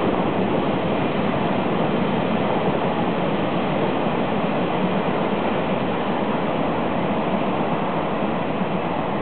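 A Chu-Kuang express passenger train running past on the rails: a steady rushing noise of its wheels on the track.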